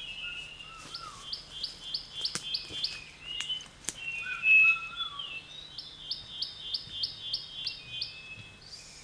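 Birds singing: one bird gives two runs of short, evenly spaced falling notes, about three a second, while others answer with whistled calls at a lower pitch.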